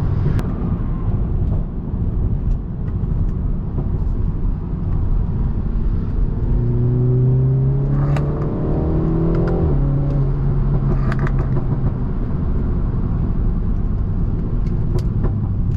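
BMW 330i's turbocharged four-cylinder engine running with road noise while driving; about six seconds in it pulls harder, its pitch rising for a few seconds, then drops off suddenly near ten seconds.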